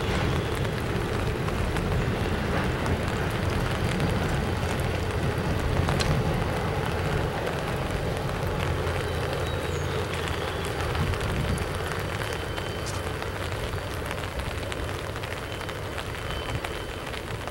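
Double-stack intermodal freight train rolling slowly past on the rails, a steady low rumble that weakens about twelve seconds in and fades off, over a steady hiss.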